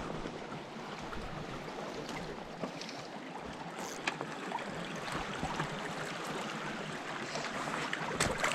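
Small rainforest stream running steadily, with a few faint knocks, the loudest near the end.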